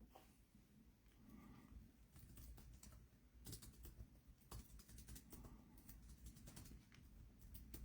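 Near silence: faint, irregular clicks.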